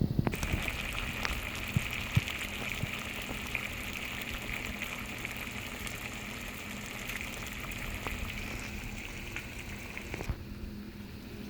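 Steady rush of water with scattered light clicks. It starts just after the beginning and cuts off suddenly about ten seconds in.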